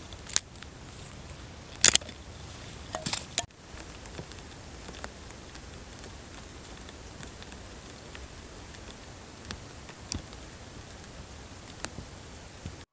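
A few sharp knocks of a hatchet striking a wooden stake, the loudest about two seconds in. Then light rain falls on a nylon tent fly: a soft, steady hiss with scattered single drop taps.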